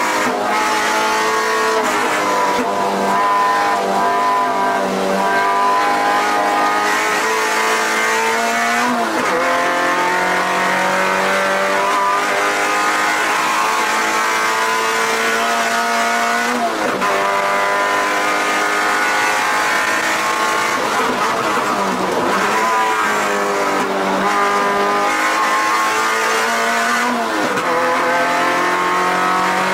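Mazda MX-5 NC Miata's swapped 2.5-litre four-cylinder engine, heard from inside the cabin, pulling hard on track. Its note climbs steadily for several seconds and then drops sharply, about four times.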